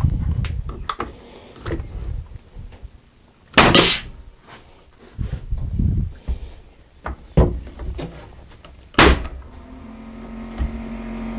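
Wooden 2x4 braces being knocked tightly into place between shelf and floor: a few loud knocks several seconds apart, with softer knocks and wood rubbing between them. A low steady hum comes in near the end.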